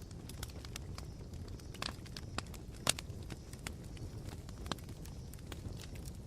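Campfire embers crackling, with irregular sharp pops and snaps over a low steady rumble; the loudest pop comes about three seconds in.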